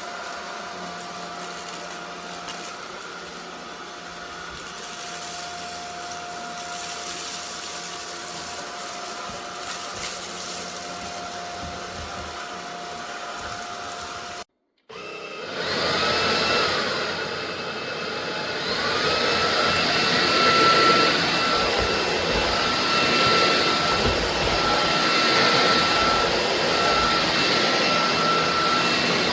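Cordless stick vacuum motor running steadily with a constant whine. It drops out abruptly about halfway through, then comes back louder, its whine rising twice before it settles.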